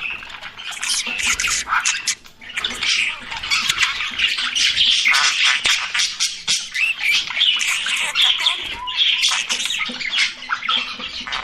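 Budgerigars chirping and squawking in dense, continuous chatter, with a brief lull about two seconds in.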